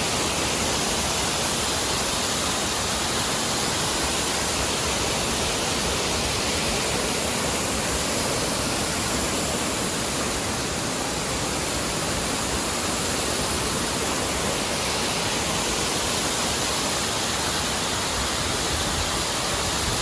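Large waterfall crashing down, a steady, loud rush of falling water with no change.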